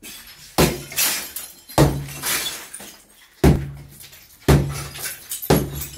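Five heavy blows about a second apart breaking up a masonry fireplace, each strike followed by the rattle of broken pieces falling.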